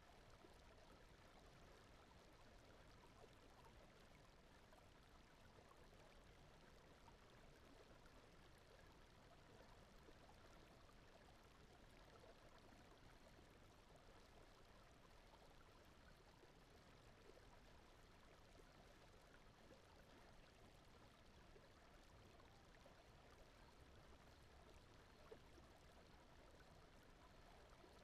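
Very faint, steady ambience of a gently flowing stream over a soft low brown-noise bed, with one tiny click near the end.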